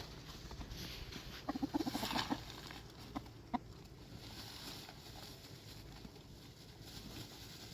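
A hen clucking: a short run of quick clucks about one and a half seconds in, with a single sharp knock a little later and faint rustling throughout.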